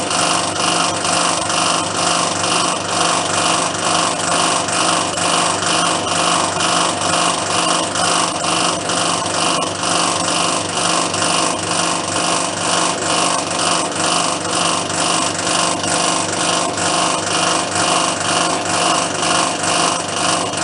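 Metal being cut by a power tool in a workshop, running without pause, with an even repeating stroke about twice a second.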